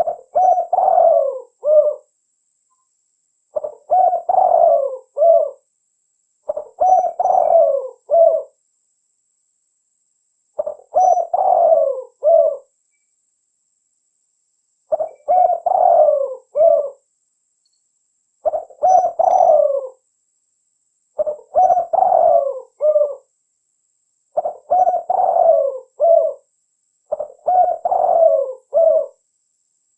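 Spotted dove (tekukur) calling over and over: a phrase of several low coo notes about two seconds long, repeated about every three seconds, nine times.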